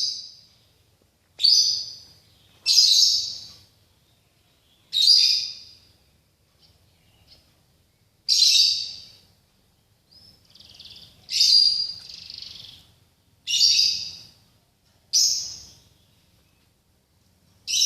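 A songbird singing over and over: about nine short, high phrases with pauses of a second or more between them.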